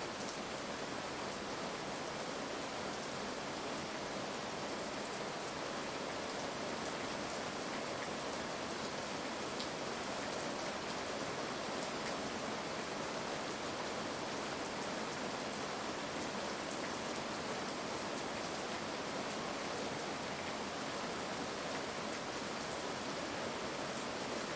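Heavy rain falling steadily, an even hiss with scattered faint drop ticks and no thunder.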